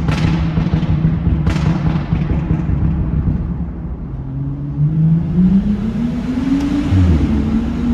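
BMW N55 turbocharged straight-six with a muffler-delete exhaust, droning steadily at low revs in top gear, then rising in pitch from about four seconds in as the revs climb. Two short knocks near the start.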